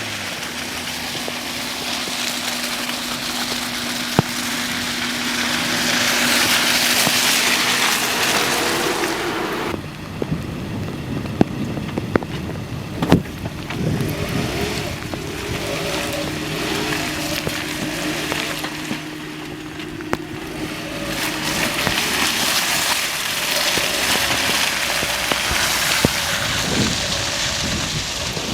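Hyundai Tucson's engine running under load while driving through mud, with a steady hiss of tyres and spray that swells and fades. The engine note shifts about ten seconds in, and a few sharp knocks come shortly after.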